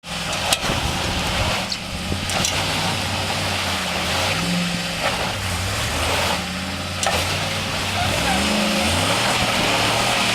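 SUV engine running, its pitch rising and falling as it is revved, under a steady hiss, with a few sharp knocks in the first few seconds.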